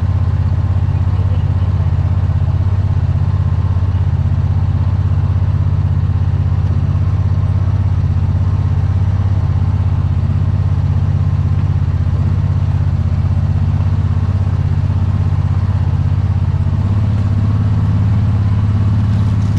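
Small engine running at a steady speed, a constant low hum that grows slightly louder near the end.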